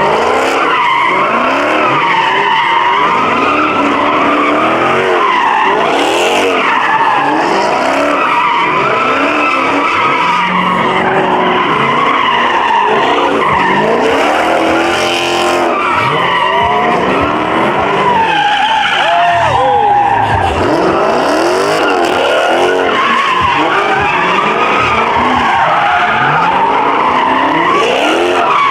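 Muscle-car engines revving up and down again and again over continuous, wavering tyre squeal from cars spinning their tyres in burnouts.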